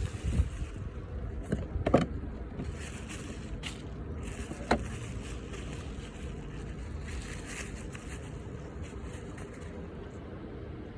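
Toyota Aygo's 1.0-litre three-cylinder petrol engine idling with a steady low rumble, and two sharp clicks about two seconds in and a little before five seconds.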